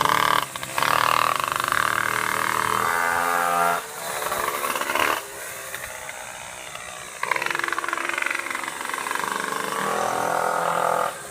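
Small two-stroke pocket bike engine being run in, revving high and falling away with several sudden throttle cuts, the pitch sweeping down and back up as the bike goes past.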